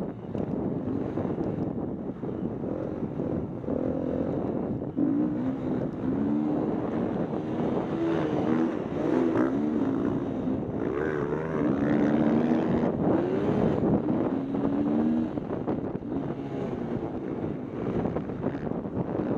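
Dirt bike engine revving up and down again and again as it rides a motocross track, with wind buffeting the microphone throughout.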